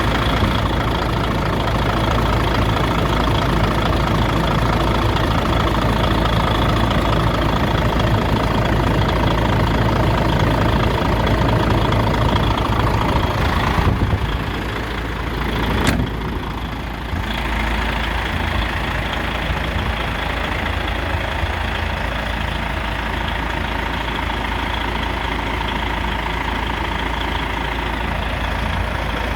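DAF XF 105.510 truck's PACCAR MX straight-six diesel idling steadily. About halfway through the sound drops and turns duller, with a single sharp click, and the idle runs on quieter.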